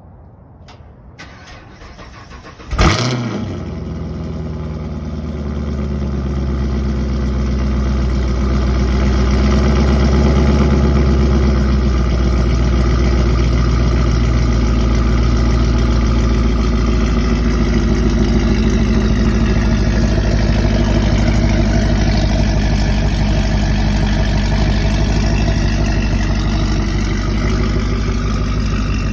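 Supercharged Camaro engine started from cold. After a couple of clicks it catches with a sudden loud burst about three seconds in. It then builds to a loud, steady fast idle.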